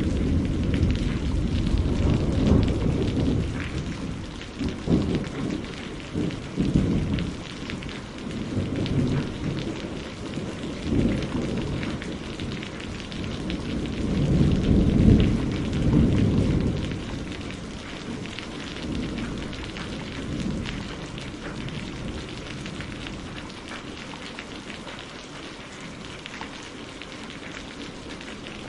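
Steady rain on a greenhouse roof with thunder rolling underneath. The rumble swells to its loudest about halfway through, then dies away, leaving the rain alone.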